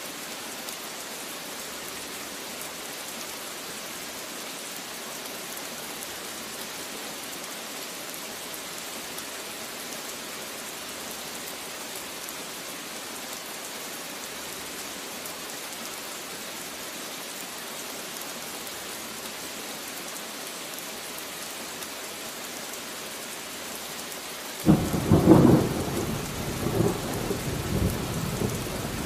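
Steady rain falling, then near the end a sudden clap of thunder that rolls on in rumbles.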